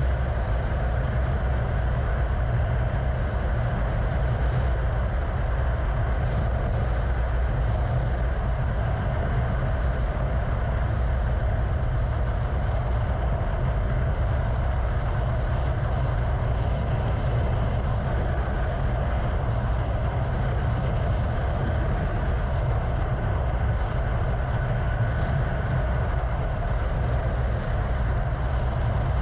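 Steady wind rush and road noise from a Yamaha FZ6 motorcycle cruising at highway speed, with wind on the camera microphone. The rumble stays low and even throughout, with no change in engine pitch.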